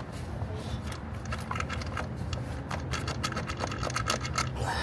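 Light clicking and scraping as the oil filter housing on a Jeep 3.6 V6 is wiggled and worked loose from its seat. The clicks come thicker toward the end, over a steady low hum.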